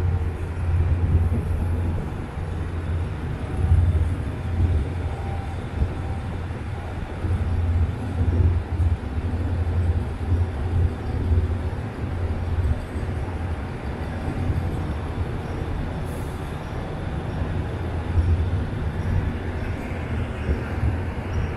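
Steady low rumble of a diesel train running.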